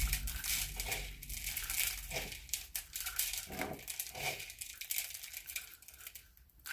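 Dry crushed sunflower seed and corn mix crackling and rustling as it is handled and pressed onto a peanut-butter-coated cardboard roll: a dense run of small crackles with a few soft knocks, thinning out in the last couple of seconds.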